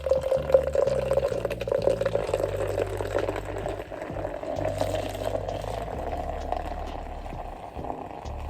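A drink being poured into a plastic cup: a steady pouring sound whose pitch rises slowly, easing off near the end.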